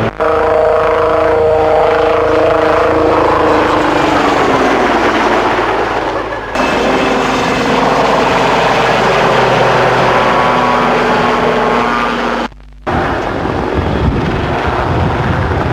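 Westland Lynx helicopter flying a display, with twin-turbine whine and rotor sound whose pitch falls as it passes a few seconds in. The sound briefly cuts out near the end.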